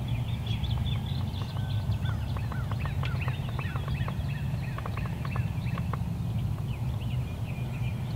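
Wild birds calling in the woods: many short, quick chirps and whistled notes overlapping, over a steady low rumble.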